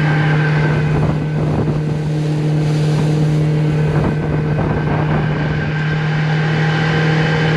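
Motorboat engine running steadily at speed, with water and wind noise and a few brief knocks about a second in and near the middle.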